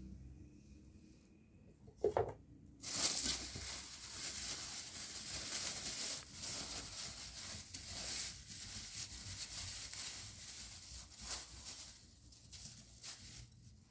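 A knock, then a loud, crackling hiss of food frying in hot oil that starts suddenly just under three seconds in and slowly dies down.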